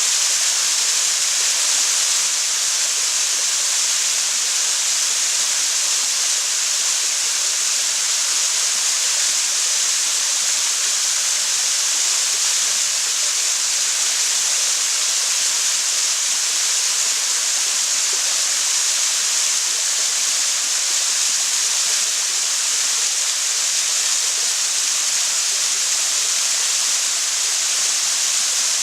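A waterfall's falling water making a steady, unbroken hissing rush.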